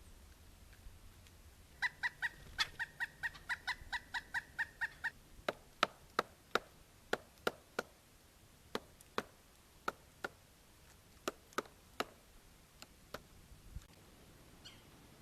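Woodpecker calling a quick run of about a dozen evenly spaced notes, then pecking at tree bark with sharp, irregular single taps while foraging.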